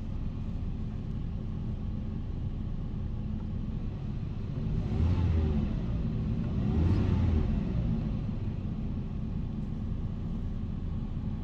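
Jaguar car engine idling from a cold start, revved twice in quick succession near the middle, each rev rising and falling back to idle.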